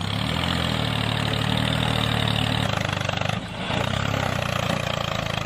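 Tractor engine idling steadily with an even, fast pulse. It dips briefly about three and a half seconds in, then carries on.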